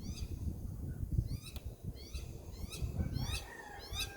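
Garden birds calling: a short, high, hooked chirp repeated about once or twice a second, over a low rumble. A faint thin steady whistle joins about three seconds in.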